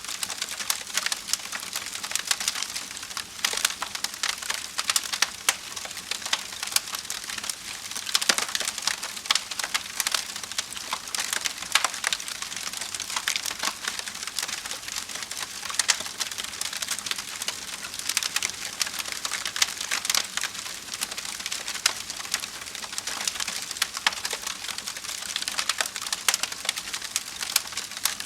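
Wood fire crackling steadily, with frequent sharp pops and snaps over a continuous hiss.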